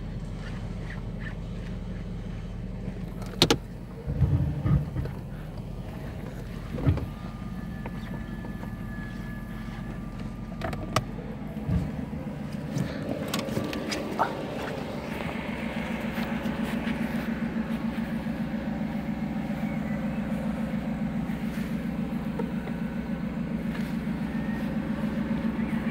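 Mercedes-Benz W140 400 SEL's 4.2-litre V8 idling steadily, with a few sharp clicks and knocks in the first dozen seconds. From about halfway through, the idle is heard from behind the car and gets louder, with an even exhaust pulse.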